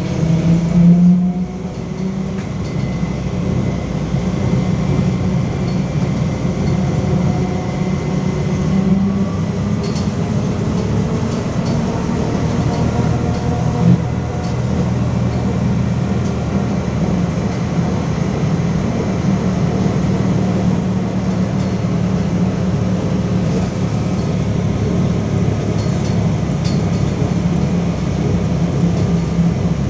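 Interior ride noise of a LiAZ-5280 trolleybus in motion: a steady low rumble from the running gear and road, with a faint traction-motor whine that shifts in pitch as the speed changes. A louder swell comes about a second in, and a single knock about halfway through.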